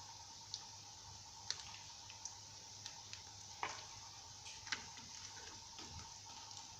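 Breaded quail eggs frying in hot oil: a faint, steady sizzle with scattered sharp pops and crackles.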